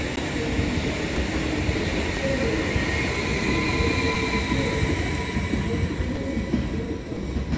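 Electric train moving along a station platform: a steady rumble under a high whine of several pitches. It grows a little quieter near the end.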